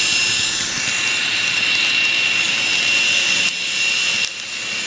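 Kato P42 N-scale diesel locomotive running on the track, with a steady, high-pitched buzzing whine from its motor and MRC sound decoder. The level dips briefly twice near the end.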